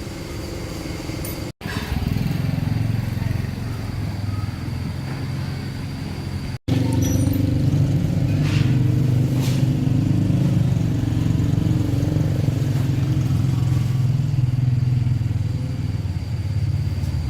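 A motor or engine running steadily with a low hum, in segments split by abrupt cuts; it is louder after the cut about six and a half seconds in.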